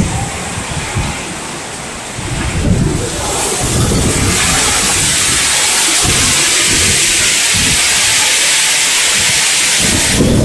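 Heavy rain mixed with hail: a dense, steady hiss that grows louder about three seconds in and then holds. Gusts of wind rumble on the microphone underneath.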